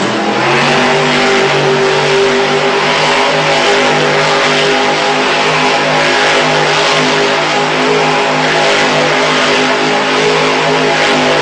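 Grave Digger monster truck's engine running loud and revving up and down in steps, with a dense roar of noise over it.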